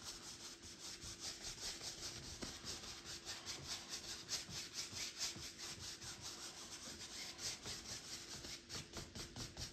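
A paintbrush scrubbing crimson paint onto the edges of a canvas sky in quick, rhythmic back-and-forth strokes, about three or four a second.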